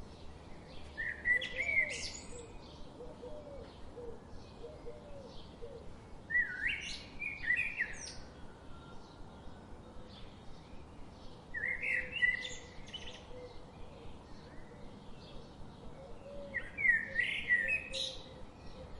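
A songbird sings a short phrase of about a second and a half, repeated about every five seconds, four times in all. Many faint, short chirps from other birds and a steady background hiss run underneath.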